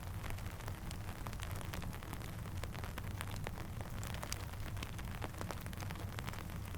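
Rain and a crackling campfire in a steady ambience mix: a constant low rumble and hiss, scattered with many sharp ticks and pops.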